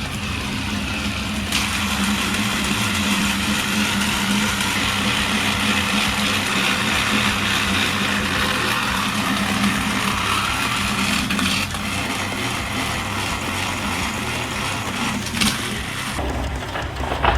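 Battery-powered toy trains running: small electric motors and plastic gearing whirring steadily, wheels on plastic track. The sound changes and thins about twelve seconds in.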